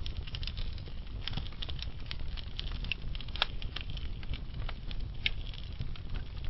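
Wood fire burning in a fireplace, with the logs crackling in irregular sharp pops over a low, steady rumble of the flames.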